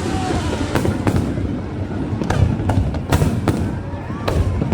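Aerial fireworks bursting: a quick run of sharp bangs, about seven in under five seconds, over a continuous low rumble, with a few whistling tones gliding in pitch.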